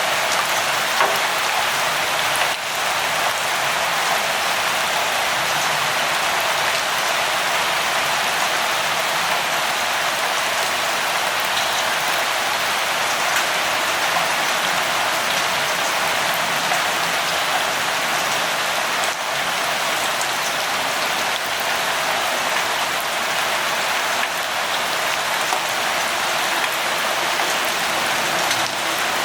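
Steady light rain, an even hiss of falling drops with scattered small taps of drops striking a surface.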